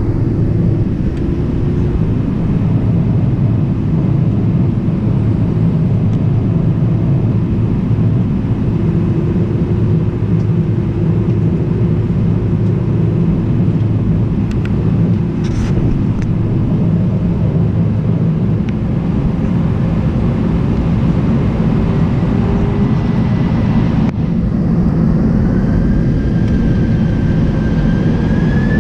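Airbus A319 cabin noise: the jet engines and airflow make a steady low drone. From about 25 seconds in, a whine rises in pitch as the engines spool up.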